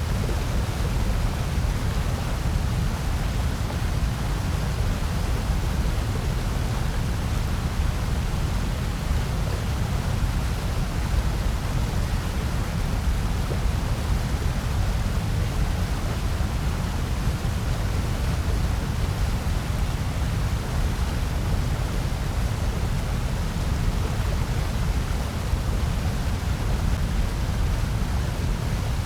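Steady, unchanging generated noise for masking and sleep, a constant rushing hiss with most of its weight in a deep low rumble and less toward the top.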